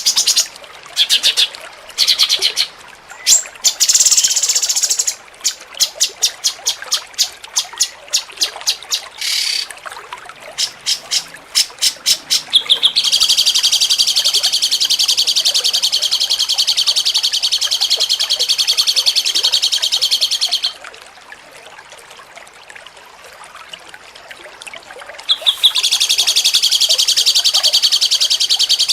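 Cucak cungkok song in the 'jengking munting' style: fast, high-pitched chirps and trills. Short bursts and quick runs of even notes come first, then a long unbroken rattling trill about halfway through. After a few quieter seconds the trill starts again near the end.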